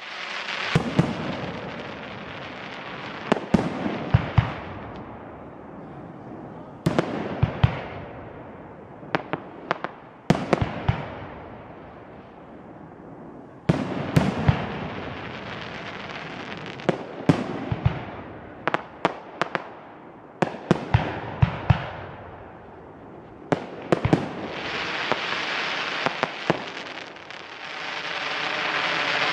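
Fireworks going off in clusters of sharp bangs, each burst followed by a crackling, fading tail. A steady hiss builds over the last few seconds.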